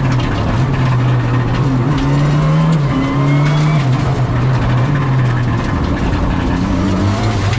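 Rally car engine heard from inside the cockpit, revving up through the gears, its pitch climbing and then dropping back at each shift, over road and tyre noise.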